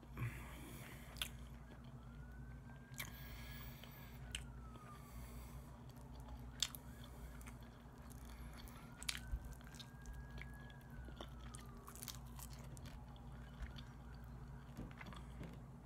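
A man chewing barbecued chicken close to the microphone, with wet mouth clicks and smacks. A faint siren wails twice, each wail a slow rise and then a falling glide, over a steady low hum.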